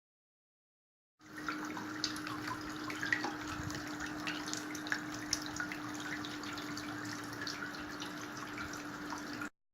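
Small tabletop water fountain running: water trickles and splashes steadily with many small drips, over a steady low hum from its electric water pump. It starts abruptly about a second in and cuts off just before the end.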